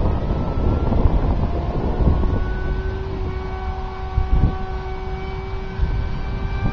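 Electric motor and 6x4 propeller of a foam RC Su-37 in flight, a thin steady whine at several pitches that shift a little as the plane passes. Heavy wind noise on the microphone runs under it.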